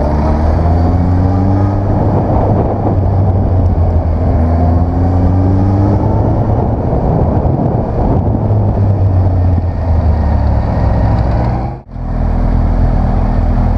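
Motorcycle engine pulling hard under acceleration, its pitch rising through two sweeps as it goes up the gears, over a dense rush of wind noise. Near the end the sound cuts out abruptly and comes back at a steady pitch.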